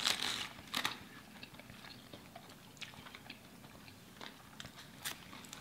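Close-mic chewing of a bite of a bacon chicken sandwich on a croissant bun: a couple of louder bite sounds in the first second, then quiet chewing with small mouth clicks.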